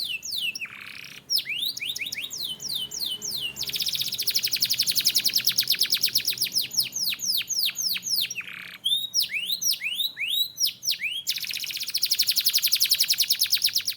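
Canary singing: runs of quick, high whistled notes that slide downward, broken by two long, very fast rolling trills, about four seconds in and again near the end, and a couple of short harsh notes.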